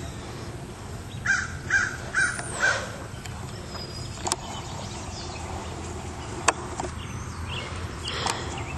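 A bird calling four times in quick succession, about two calls a second, followed later by a few sharp clicks.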